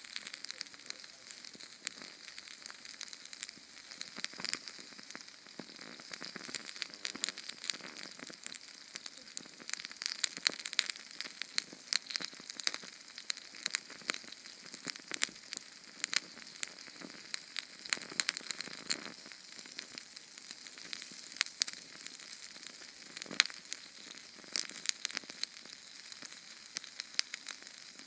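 Small Sterno canned-fuel flame burning with constant crackling: many sharp pops and ticks over a steady hiss.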